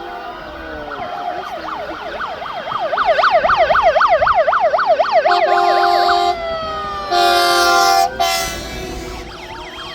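Fire engine sirens sounding in a fast up-and-down yelp, with two steady air-horn blasts a little past halfway and a slower wail that falls and then climbs again near the end.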